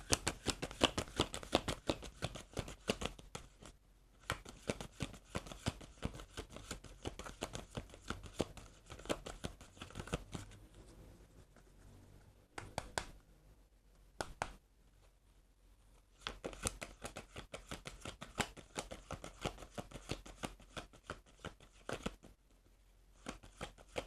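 A Rider-Waite tarot deck being shuffled by hand: three long runs of rapid card clicks, with quieter gaps between them that hold a few single snaps.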